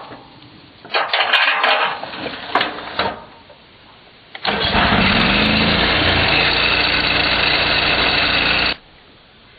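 Knocks and clatter as the 80-grit sanding disc is handled and fitted. Then the Lucas portable sawmill's petrol engine starts abruptly, revs up quickly and runs steadily for about four seconds before cutting off suddenly.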